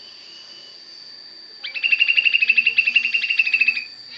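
Sooty-headed bulbul (kutilang) singing a rapid rattling trill (a 'tembakan' burst) of about a dozen notes a second, lasting a little over two seconds, starting about one and a half seconds in. The burst is in the style of the cucak jenggot (brown-cheeked bulbul). A thin, steady, high insect-like tone runs underneath.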